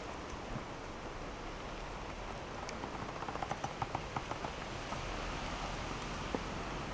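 Leather clothing rustling and creaking, with a run of small clicks and ticks about three to four and a half seconds in, over a steady hiss.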